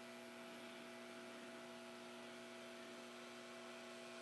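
Faint, steady electrical mains hum: a low buzz of a few fixed tones that does not change.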